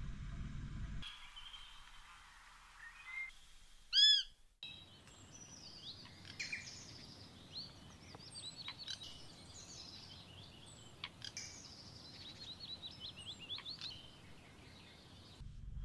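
Small birds chirping and singing, with many short chirps and quick descending trills, and one loud short arched call about four seconds in.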